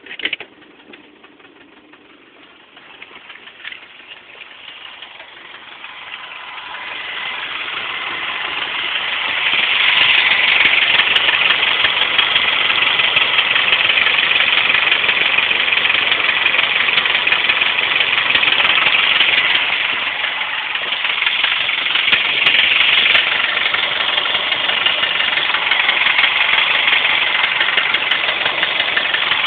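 Subaru EJ25 flat-four engine idling rough with a loud, rapid clicking knock, which the owner suspects is a spun bearing. It grows louder over the first several seconds, then holds steady.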